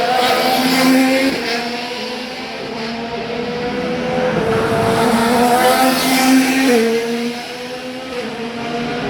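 Several IndyCar twin-turbocharged V6 engines running at part throttle as the field circulates before the green flag. Their overlapping tones step up and down in pitch a few times as the cars shift and change speed.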